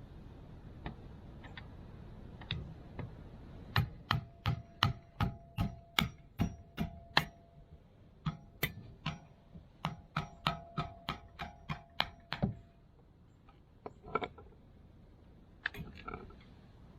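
Ratchet wrench clicking in regular strokes, about three clicks a second, in two runs of a few seconds each, with a faint metallic ringing under the clicks.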